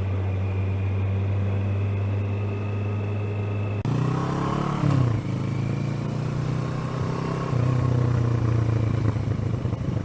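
Motorcycle engine running at a steady road speed, heard from a helmet camera with wind rush. About four seconds in, the engine note jumps and a falling pitch sweeps down before it settles into a steady note again.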